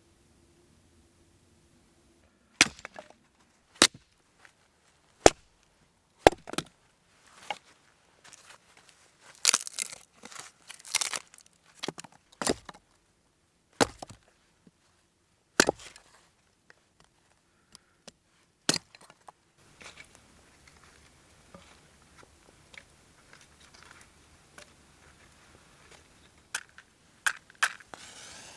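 Dry wood being chopped and broken: a series of sharp, irregularly spaced knocks and cracks, some with a short splintering crackle, for about the first two-thirds. After that come only faint rustling and a few small clicks.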